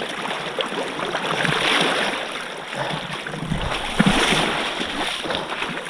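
Rushing, splashing river water around a boat moving through shallows.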